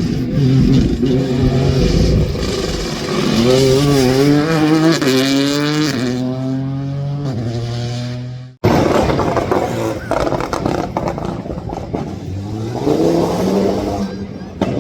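Rally car engines at full effort: one car revs up and shifts through several gears, its pitch climbing and dropping in steps. After a sudden cut, a second car accelerates hard with a rising engine note.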